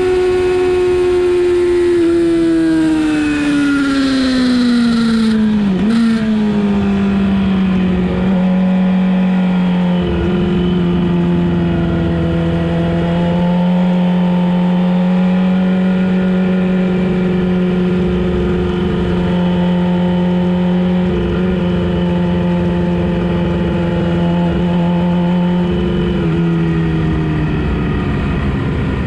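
Sportbike engine heard on board, its pitch falling over a few seconds as the bike slows, with wind rush that drops away about five seconds in. The engine then runs at a steady low speed, dropping a little further near the end.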